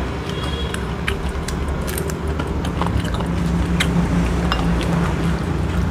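Close-up chewing of fried catfish and rice, with frequent short, sharp mouth clicks and smacks. A steady low hum runs underneath.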